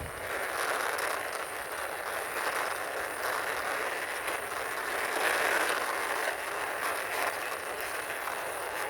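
Plastic wheels of a toy ambulance rolling steadily as it is pushed along by hand, a continuous rushing rumble.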